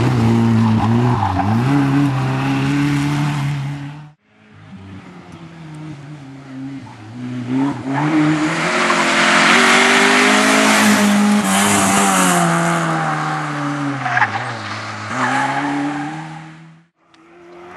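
Opel Corsa rally car engine at high revs, its pitch dropping and rising through gear changes, cut off abruptly about four seconds in. A second run then builds up, loudest in the middle with heavy tyre and road noise over the engine, and fades away before another abrupt cut near the end.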